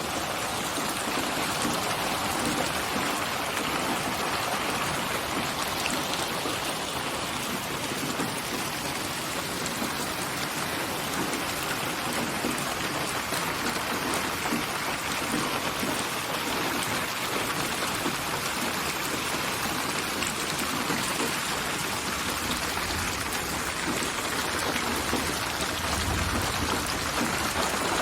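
Steady rain falling in an even, continuous patter, with a brief low rumble near the end.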